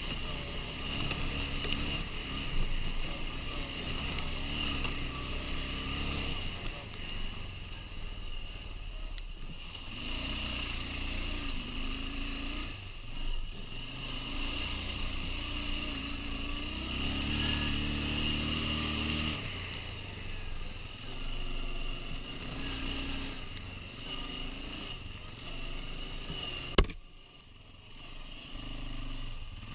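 Quad bike (ATV) engine running while riding, its revs rising and falling repeatedly. Near the end there is a single sharp click and the engine sound briefly drops away.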